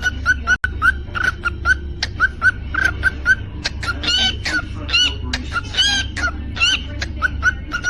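Cockatiel calling: a rapid series of short repeated chirps, with longer warbling whistled notes in the middle, over a steady low hum.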